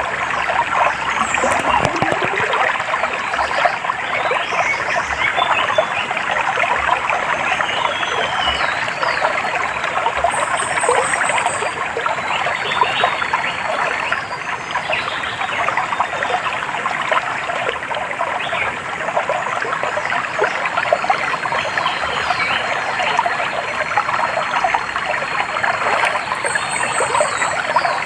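Stream of water trickling and babbling steadily, with birds giving short high chirps now and then above it.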